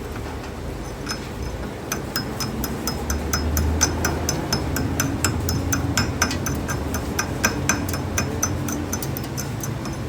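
Rapid, regular light metal-on-metal clinks, about four a second, each with a short ring, starting about a second in over a low machine hum.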